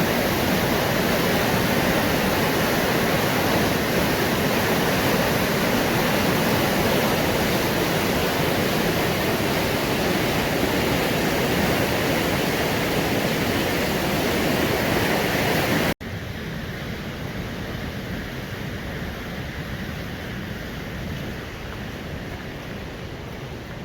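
Steady rushing of river water over the mill rapids. About two-thirds of the way through it drops suddenly in level and carries on quieter.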